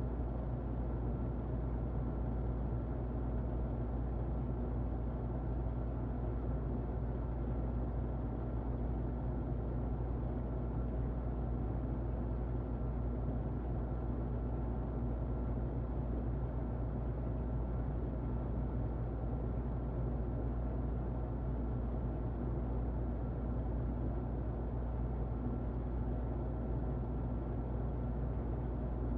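Muffled electric fan running steadily: a deep, even whooshing noise with a faint steady hum.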